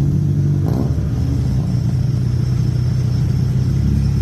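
Swapped Honda K-series four-cylinder engine in a Honda Ferio idling steadily, with a brief throttle blip under a second in.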